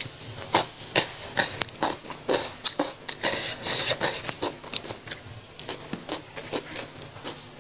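Close-miked eating sounds: irregular short crunches and wet mouth clicks of chewing raw lalapan vegetables and jengkol, with fried noodles taken in by hand.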